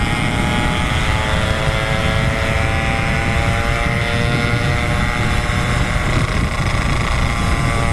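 Yamaha RX 135 two-stroke motorcycle engine running flat out in fifth gear, its pitch creeping up slightly and then holding: the engine has run out of breath and will not pull any harder. Heavy wind rumble on the microphone from riding at speed.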